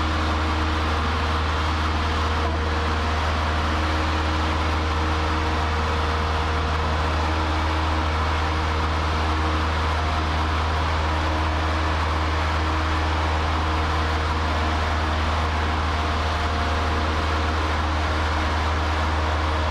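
Cessna 152's four-cylinder Lycoming O-235 engine and propeller droning steadily in flight, heard inside the cockpit.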